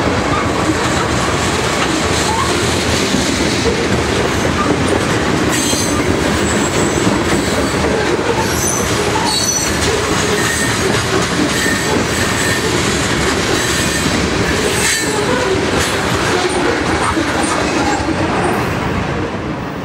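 Freight train of railroad tank cars rolling past close by, wheels rumbling on the rails with short high wheel squeals now and then. The sound begins to fade near the end as the last car goes by.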